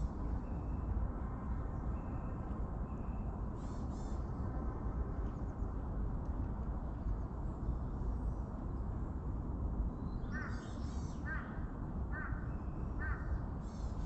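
A bird calling four times in a row, about a second apart, over a steady low rumble.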